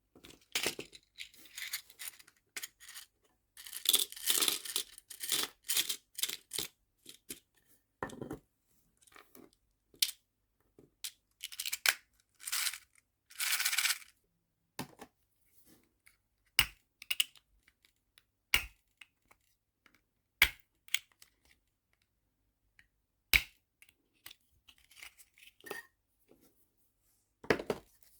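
Nail-art charms and small plastic storage containers being handled, giving scattered light clicks and taps. Two longer stretches of crinkly rustling, like packaging being torn or crumpled, come a few seconds in and again around the middle.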